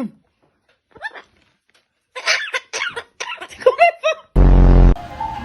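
Parrot making choppy, cough-like chattering sounds for about two seconds, with a brief loud low buzz near the end.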